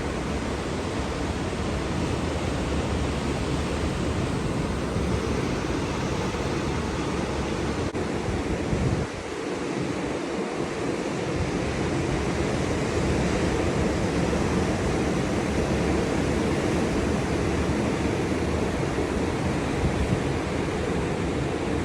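Atlantic surf breaking continuously on the beach, a steady wash of wave noise, with wind rumbling on the microphone; the wind rumble drops out briefly about nine seconds in.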